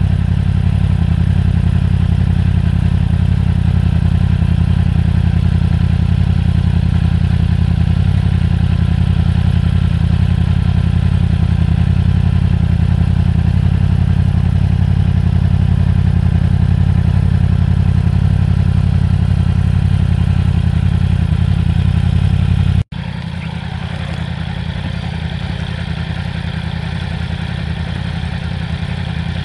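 Yamaha R1 motorcycle's crossplane inline-four idling steadily through an Akrapovic slip-on exhaust, with a deep, even note. About 23 s in the sound cuts off for an instant and resumes quieter.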